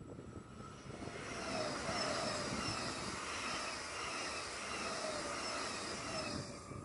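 SBB electric express train passing at speed. Its rushing noise builds over the first two seconds, holds, then falls away near the end, with short high falling whines over it.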